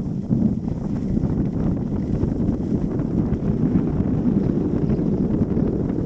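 Wind buffeting the action camera's microphone: a steady low rumble, as from moving through air on skis.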